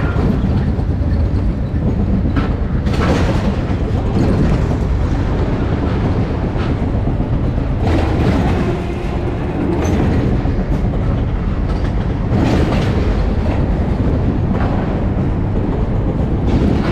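Cedeal Rides spinning roller coaster car running along its steel track: a loud, continuous rumble and clatter of the wheels, with louder surges about every four to five seconds.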